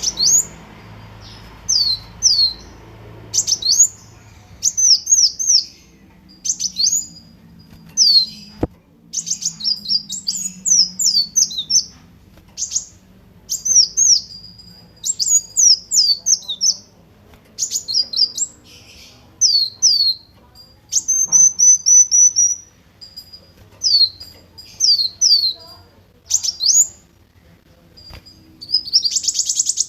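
Kolibri wulung (a sunbird) singing: quick clusters of short, sharp, high notes that sweep down in pitch, repeated again and again, with a brief rapid trill about two-thirds of the way through.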